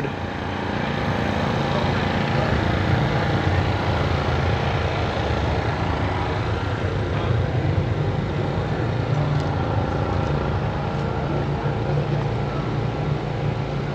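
A motor vehicle engine running steadily at a low, even hum, with outdoor noise around it.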